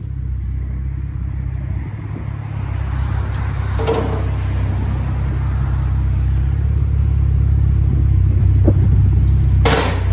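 Chevy Camaro 3.6L V6 running at low revs through a Rev 9 axle-back exhaust with its rear resonators cut off, giving a deep, steady rumble that slowly grows louder as the car is backed up. A brief noise sounds about 4 seconds in, and a stronger one near the end.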